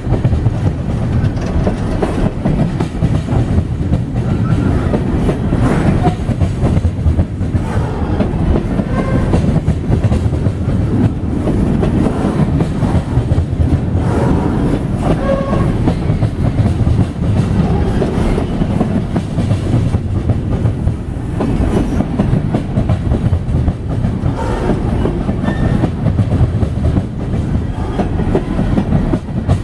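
Coal hopper cars of a BNSF coal train rolling past close by: a steady, loud rumble of wheels on rail with a continuous clickety-clack of wheels over rail joints and a few brief, faint metallic squeals.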